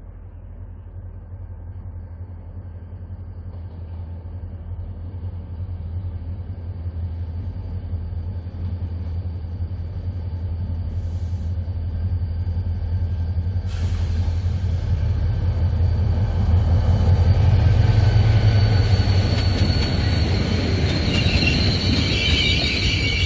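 Mugunghwa-ho passenger train hauled by a diesel locomotive, arriving at a station: a low engine and wheel rumble growing steadily louder as it approaches. About two-thirds of the way in, rail noise sets in suddenly, and near the end high brake and wheel squeal rises as the cars roll past slowing to a stop.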